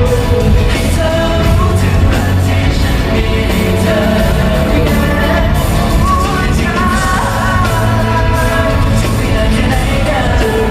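Loud amplified pop-rock band music with a lead vocalist singing a melody over drums and bass, heard as a live performance in a large hall.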